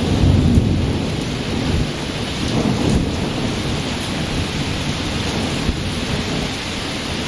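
Thunder rumbling over steady rain, the rumble heaviest about half a second in and easing off after about three seconds.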